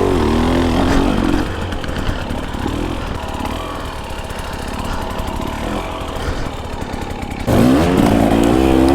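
Dirt bike engines running and revving on a steep climb, with a louder surge of revs about seven and a half seconds in.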